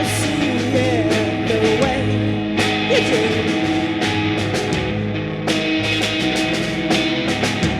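Rock band playing live: a lead line with bending notes over sustained bass and drums, with repeated cymbal hits.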